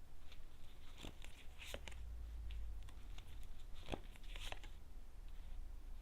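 Tarot cards being handled and turned over: a few faint, scattered rustles and soft clicks.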